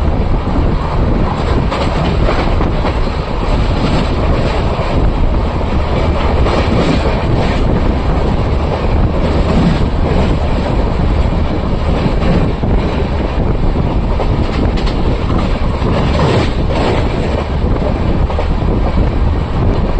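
Moving Humsafar Express passenger train's wheels running on the rails: a loud, steady rumble with wind noise and a few sharper clacks.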